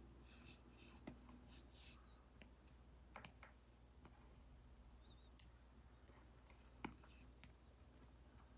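Stylus tip tapping on a tablet screen fitted with a paper-like matte screen protector: a handful of faint, sharp ticks, the loudest about midway, between faint scratchy strokes.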